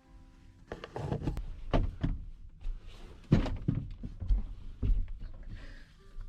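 A run of knocks and thumps, about a dozen irregular strokes, in a small enclosed space, the loudest a little past halfway.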